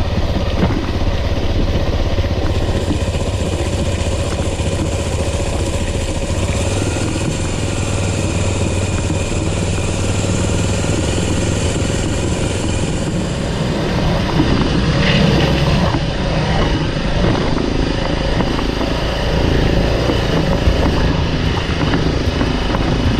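Motorcycle engine running steadily while being ridden, its sound growing busier about fourteen seconds in.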